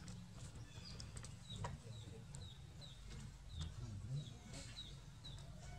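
A small bird chirping over and over, short high hooked chirps at about two a second, over a faint low rumble.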